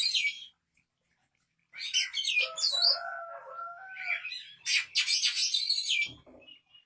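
Oriental magpie-robin nestlings begging to be fed: two bursts of shrill, rapid chirping, about two seconds in and again about five seconds in. A lower, steadier call is held between the bursts.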